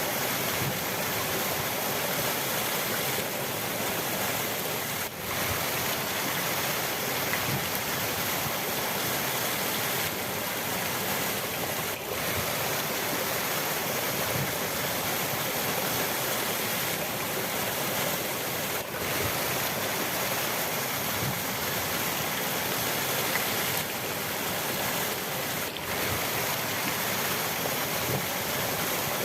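Steady rush of a river's flowing water, an even, unbroken rushing noise, with a faint momentary dip about every seven seconds.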